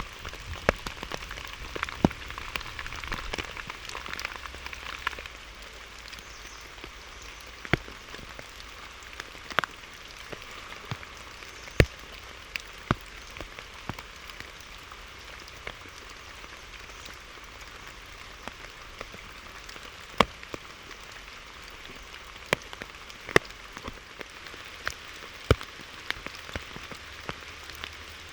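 Rain falling steadily, a little heavier for the first five seconds, with scattered heavy drops landing as sharp taps every second or two.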